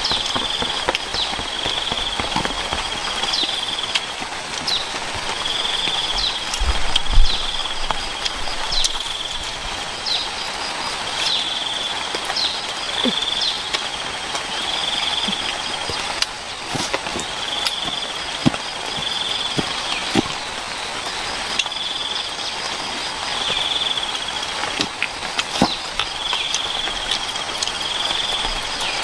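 Outdoor ambience: a short, high-pitched call repeating every second or two, often in pairs, over a steady hiss, with scattered knocks and taps and one louder thump about seven seconds in.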